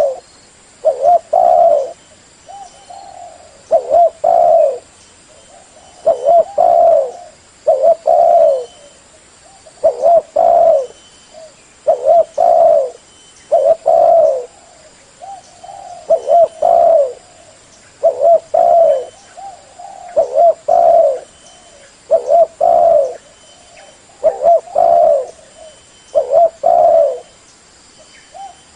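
Spotted dove cooing over and over, loud and clear. Each short phrase of a few low coo notes comes about every two seconds.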